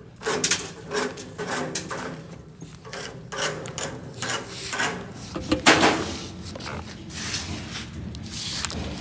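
Irregular scraping strokes, several a second, like something being rubbed or brushed across a hard surface. The loudest stroke falls near the middle.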